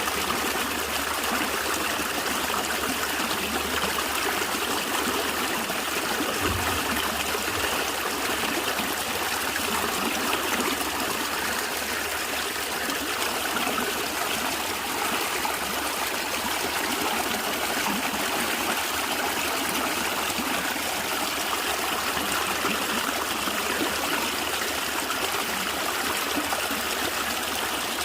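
A small natural stream flowing and gurgling steadily over stones.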